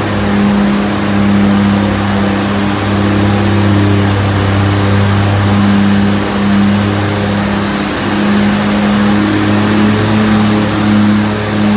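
Antique pulling tractor's engine running loud and steady at a constant speed.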